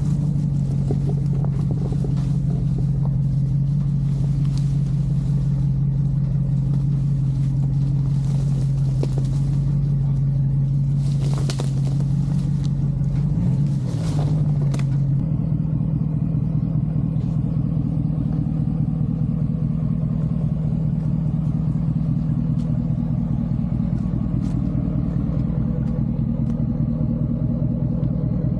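Ram 1500 pickup creeping over rough off-road ground: a steady low engine and drivetrain rumble, with a couple of brief knocks in the middle, after which the hum drops and the sound turns duller.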